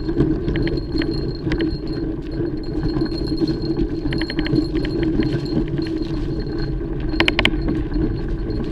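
Mountain bike being ridden over a dirt trail: a steady low rumble of tyres on the ground, with the chain and bike parts rattling and clinking in short clusters over bumps, the sharpest cluster about seven seconds in.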